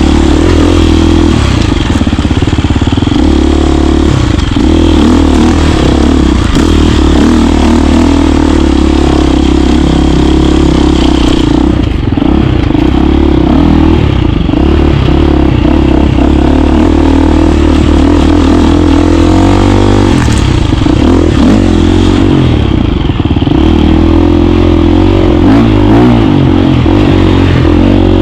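KTM 350 dirt bike's single-cylinder four-stroke engine running loud while riding, its revs rising and falling with the throttle, with a noticeable sweep in pitch about two-thirds of the way through.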